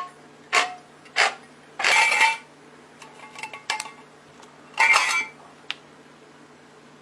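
Short hand-scraping strokes, about one every 0.6 s, stop about a second in. They give way to clinks and clatter of small metal parts being handled, loudest around 2 and 5 seconds in, with light ticks between.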